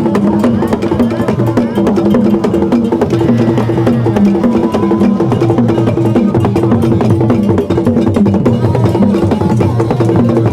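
Percussion-driven music: drums playing a repeating low pattern under fast, dense clicking strokes.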